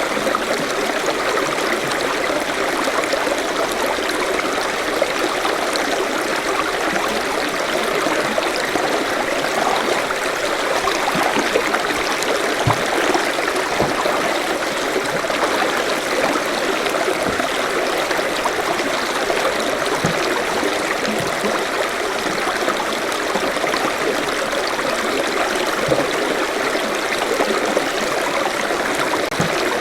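Forest stream flowing steadily, a constant rush of water with small gurgles and trickles.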